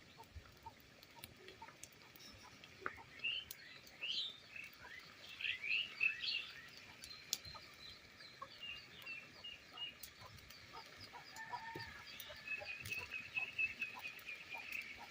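Birds chirping in short, high, sliding calls, with a quick run of repeated chirps near the end.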